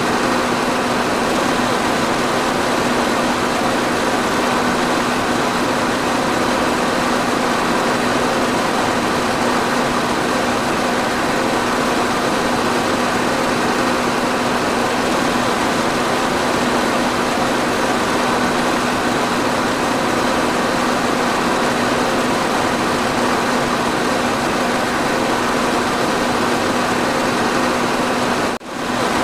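Electric fan running steadily: an even whooshing hiss with a constant low hum. The sound drops out for a split second near the end.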